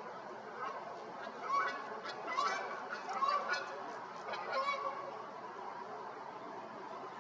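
Several short honking bird calls, about five of them between a second and a half and five seconds in, over steady background noise.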